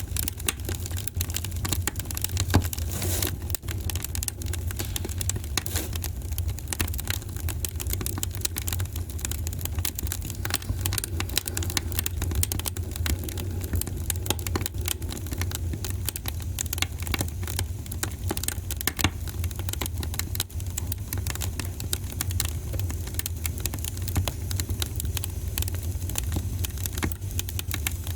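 Wood fire crackling in a fireplace: many small irregular snaps and pops over a steady low rumble.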